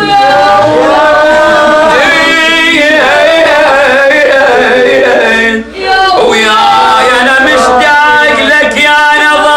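A man's voice chanting an Iraqi Arabic funeral lament in long, wavering held notes, with one short break about halfway through.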